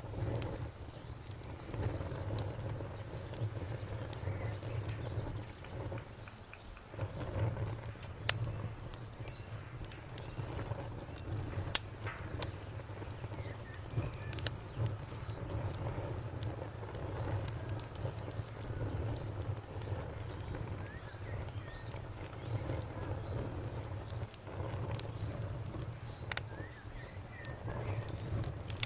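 Wood fire crackling, with sharp pops scattered irregularly over a low steady rumble, while a cricket chirps steadily in the background.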